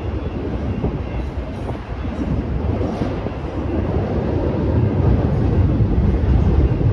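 Train rolling by, a steady low rumble.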